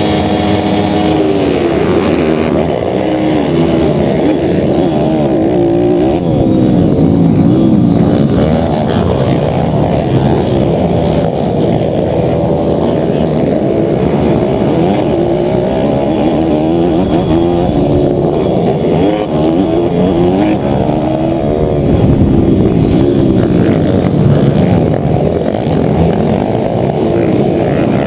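Small motocross bike engine at full throttle, heard close up from the rider's own bike, with the engines of the pack around it. It holds steady revs for the first couple of seconds, then its pitch keeps rising and falling as the rider accelerates, shifts and corners in the race.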